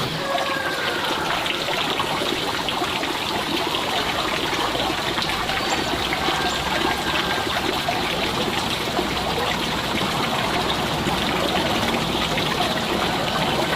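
Water trickling and running steadily with an even hiss.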